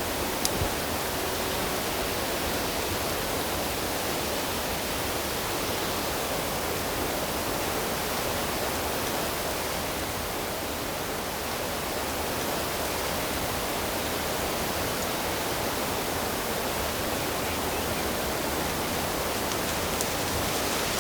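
Steady, even rush of flowing water, with a small click about half a second in.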